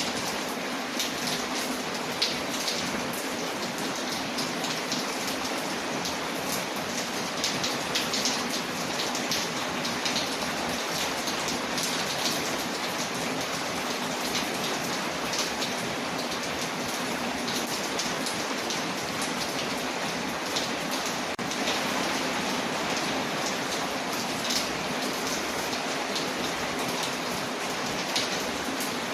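Steady rain hiss layered with a crackling wood fire, with sharp pops and ticks scattered throughout.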